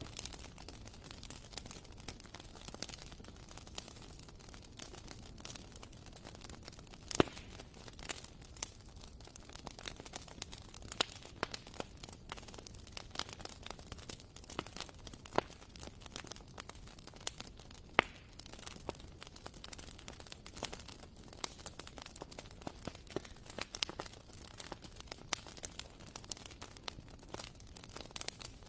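Wood fire burning in a fireplace, crackling with scattered irregular pops over a low, steady hiss; a few pops stand out sharply, about 7 and 18 seconds in.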